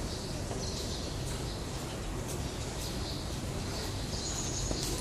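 Small birds chirping in short, high calls several times, with one slightly longer call near the end, over a steady low background hum.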